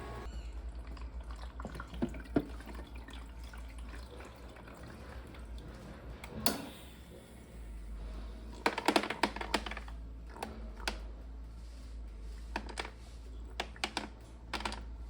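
Irregular small clicks and knocks, as of parts being handled during a repair. They come in ones and twos, with a quick cluster about nine seconds in, over a steady low hum.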